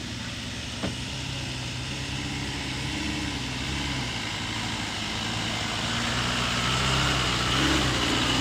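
Off-road 4x4 truck engine running, its revs rising and falling and growing louder toward the end.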